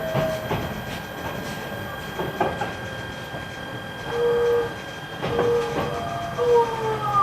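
E129 series electric train's Toyo IGBT-VVVF inverter whining as the train brakes, the tones falling in pitch as it slows, over the rumble of the running train with wheels clicking over rail joints.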